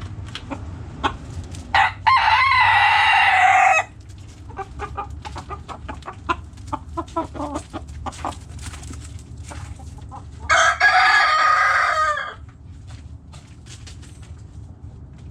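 Backyard roosters crowing twice, each crow about two seconds long, with hens clucking between the crows.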